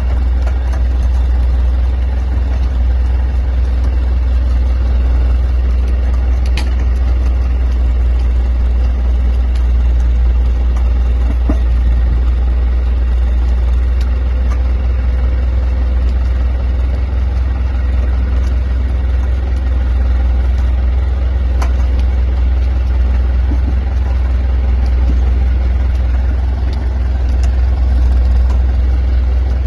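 A machine running steadily with a loud, unchanging low drone, and a few faint clicks here and there.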